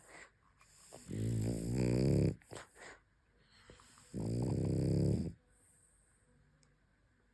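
French Bulldog snoring in its sleep: two long snores, each a little over a second, about three seconds apart, with a few short breath sounds between them.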